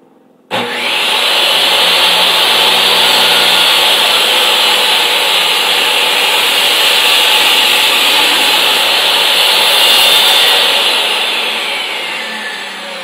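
Table saw switched on about half a second in, running loud and steady as it cuts a tenon cheek with a tenon jig, then winding down with falling pitch over the last couple of seconds.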